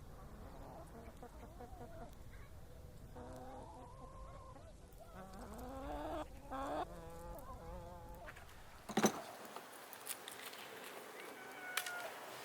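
Domestic fowl clucking and calling in short quavering phrases, with one sharp knock about nine seconds in.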